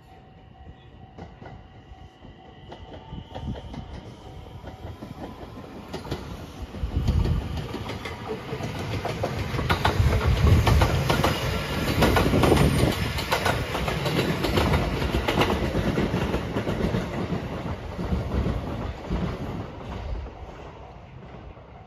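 JR West 227 series 'Urara' electric train passing: it grows louder as it approaches, its wheels clack over the rail joints as the cars go by, and the sound fades away as it leaves.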